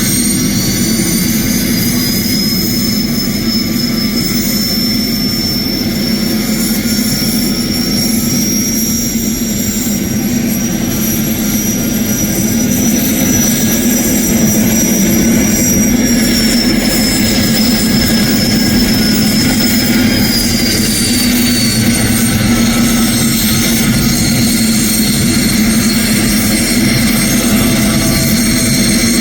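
Homemade helicopter's GTD-350 turboshaft engine running with the rotor turning, a heavy steady hum under a high turbine whine. The whine rises about a second in, holds, then falls twice, around the middle and again a few seconds later, as the power is changed.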